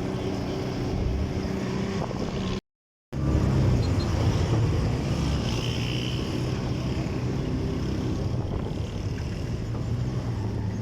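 A motor vehicle running steadily at road speed: a low engine hum with wind and road noise. The sound cuts out completely for about half a second roughly two and a half seconds in, then resumes.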